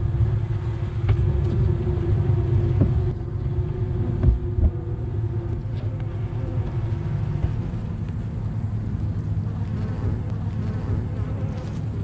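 Honeybees buzzing steadily over a low rumble, with two short knocks about four seconds in.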